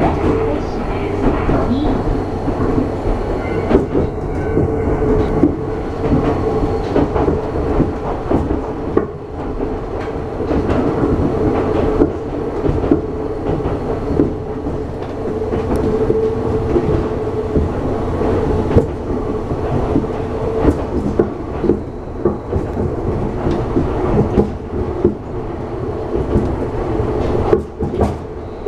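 Running noise of an Iga Railway electric train heard from inside the passenger car while it travels between stations: a steady rumble with the clatter of wheels over the rail joints.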